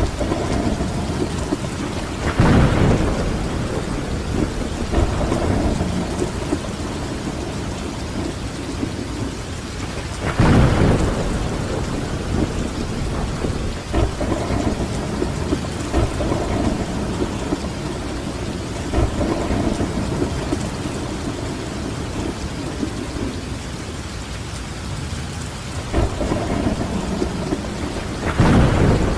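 Steady rain falling, with rolling thunder swelling up several times: strongly about two and a half seconds in, again around ten seconds in, and near the end.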